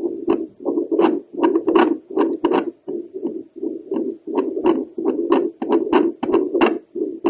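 A woman's heartbeat picked up by a handheld home Doppler over the pulmonary valve: pulsing whooshes of blood flow, each with sharp valve clicks, about two a second and irregular in spacing.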